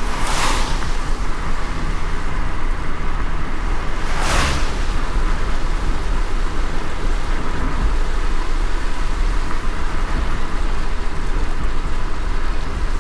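Car driving in light rain: a steady low road rumble under a constant hiss of rain, with two brief swishes, one about half a second in and another about four seconds in.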